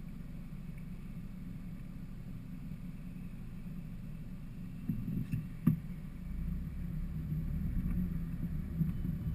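A van's engine running with a steady low hum. A few knocks and one sharp click come about five and a half seconds in, then a louder, uneven low rumble.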